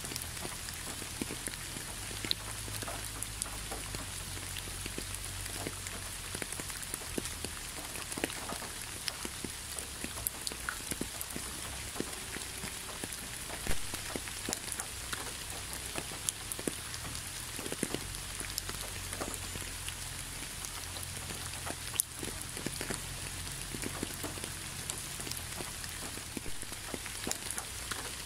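Steady rain: an even hiss with individual drops tapping irregularly on a surface, and two louder drops landing about halfway and about three-quarters of the way through.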